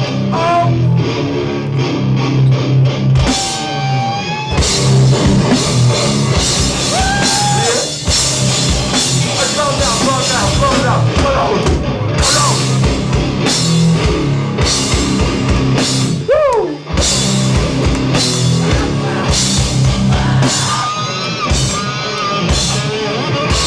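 Hardcore band playing live: distorted electric guitars, bass and a pounding drum kit through a heavy beatdown section, with shouted vocals over it.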